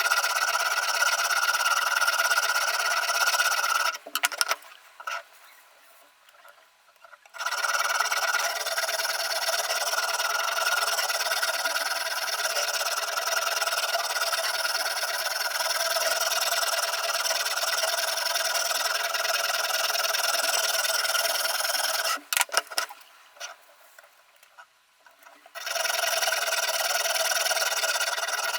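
Sharpening stone on a Ruixin Pro RX-008 guided knife sharpener scraping along the VG10 steel blade of a chef's knife in continuous strokes. The scraping stops twice for about three seconds, with a few clicks as each pause begins.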